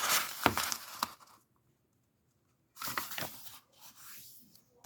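Sheet of paper rustling and crinkling as it is handled and folded diagonally in half, with sharp crackles in the first second and another burst of rustling about three seconds in.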